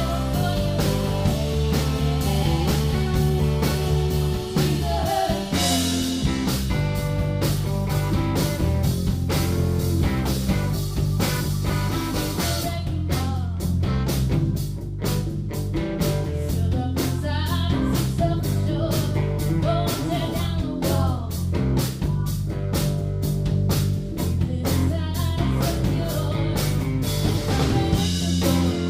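Live rock band playing a bluesy song, with a steady beat that becomes sharper and busier about twelve seconds in.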